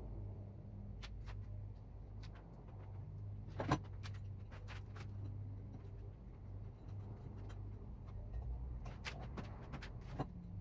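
Scattered light clicks and knocks, with one sharper click a little under four seconds in, over a low steady hum.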